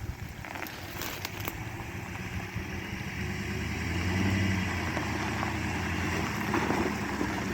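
Truck engine working under load on a steep dirt hill climb, growing louder about halfway through as it pulls up the slope.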